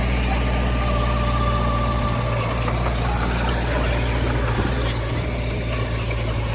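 Heavy diesel earthmoving machinery engine running steadily, with a low, even rumble and a faint whine above it.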